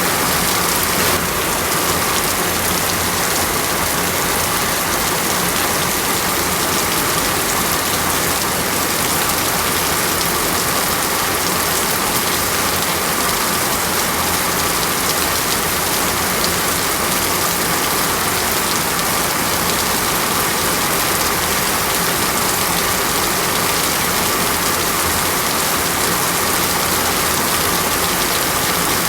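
Steady heavy rain in a rainforest, an even, unbroken hiss of drops falling on foliage and ground.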